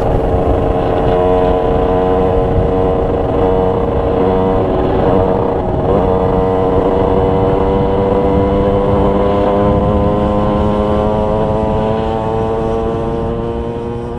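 Derbi DRD's 50cc two-stroke engine running at a steady speed while riding. It dips briefly about six seconds in, then its pitch creeps slowly upward, and it fades out near the end.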